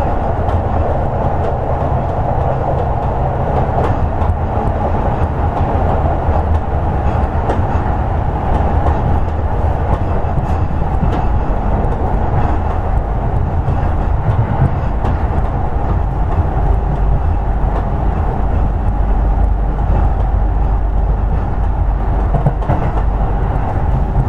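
Running noise of a Toei 10-300 series electric train on the move, heard from inside the car: a steady rumble of wheels on rail with a few faint clicks over rail joints. A faint steady motor hum comes in from about two-thirds of the way through.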